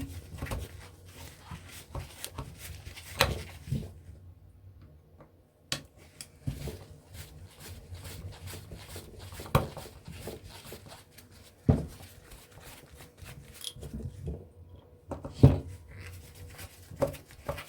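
Scattered clicks and knocks of a kitchen extractor fan motor being handled and turned over as its disassembly begins, with a few sharper knocks spread through.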